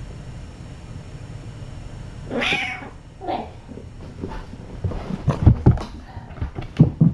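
A cat meows twice, a longer call and then a short one, followed by a quick run of low thumps and knocks near the end.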